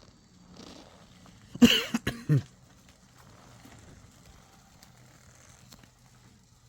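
A person coughing: one loud cough about one and a half seconds in, then a shorter second one just after.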